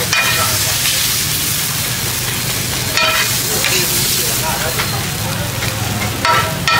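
Food sizzling and frying on a wide, shallow black pan over a fire, a steady hiss. A metal spatula scrapes and clinks against the pan a few times as the fried pieces are scooped out.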